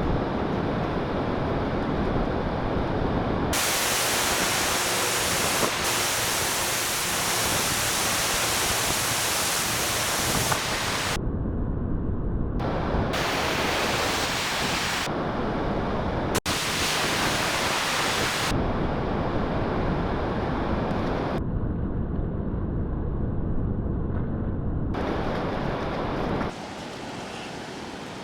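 Loud, even rushing noise of wind on the microphone and breaking surf on a sandy beach. Its tone changes abruptly several times, and it drops in level near the end.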